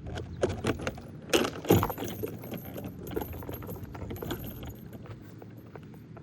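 Small hard objects clattering and clicking against one another, a burst of sharp knocks in the first two seconds and lighter ticks after, over a low steady rumble.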